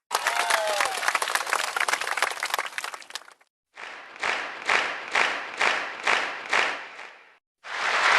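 Applause sound effects: a burst of crowd clapping with a brief falling whistle in it, then a crowd clapping in unison at about two claps a second, and a fresh round of applause starting near the end.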